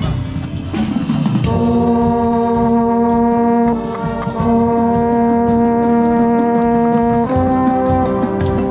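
Marching band brass section playing loud held chords, with a brief upward slide about a second in and chord changes about four and seven seconds in, heard close to a baritone/trombone player.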